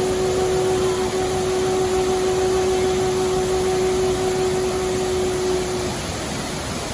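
Steady rushing water of a waterfall under one long held note of the background music, which fades out about six seconds in.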